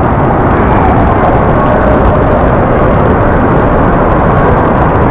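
Loud, steady rushing din of a waterpark slide area: running water and a noisy hall, with no breaks.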